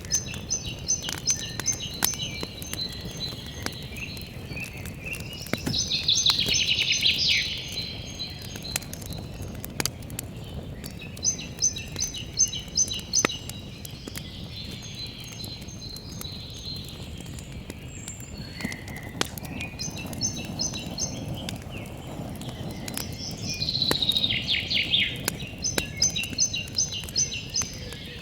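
Campfire crackling with scattered sharp pops, under songbirds singing repeated high trilled phrases; twice a louder song ends in a fast descending flourish.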